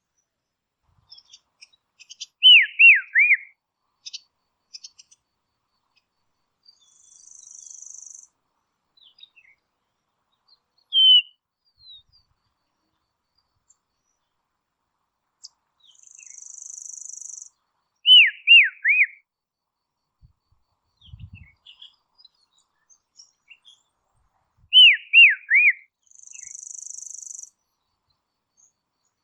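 A dusky robin singing: three short phrases, each of about four quick down-slurred whistled notes, well spaced apart, with a single note in between. Soft, high buzzy hisses sound three times between the phrases.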